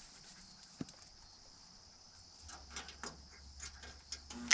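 Welder tack-welding a sheet-metal patch panel onto a truck fender: faint, scattered crackling that begins a little past halfway over a low hum, with a single click about a second in.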